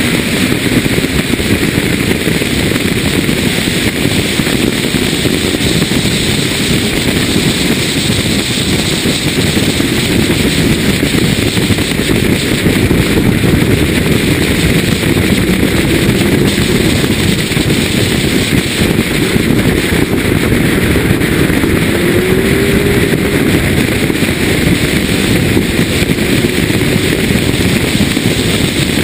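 BMW E36 M3's straight-six engine driven hard on track, heard from on board, its note rising and falling with the revs over a loud, steady rush of wind and road noise.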